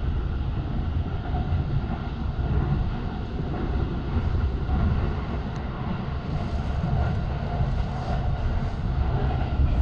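Steady running rumble inside a moving JR Joban Line commuter train, the wheels rolling along the rails.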